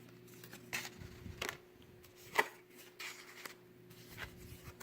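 Faint scattered taps and clicks, the loudest about two and a half seconds in.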